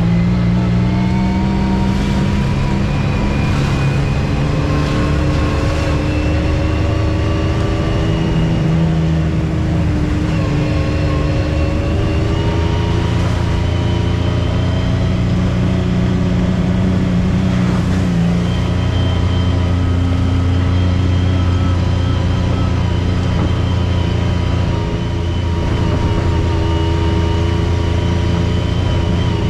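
Off-road vehicle engine running under way on a trail, a steady low rumble whose pitch rises and falls gently as the throttle changes.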